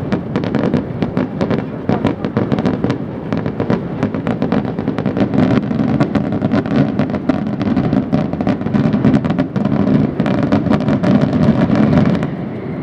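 Fireworks display going off in a dense, unbroken barrage of bangs and crackles, many per second, over a steady low rumble.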